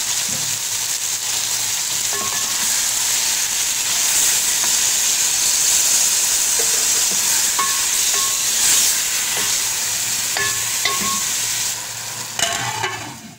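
Sliced tinda (apple gourd) sizzling in oil and tomato masala in a metal pot while being stirred with a wooden spatula, a steady frying hiss with a few light knocks of the spatula against the pot.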